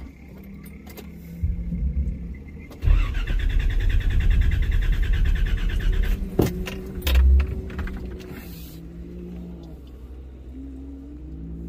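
Nissan GQ Patrol 4WD engine idling, heard from inside the cabin. For about three seconds in the middle a much louder low rumble with a fast rattle covers it, followed by a few sharp knocks and a thump.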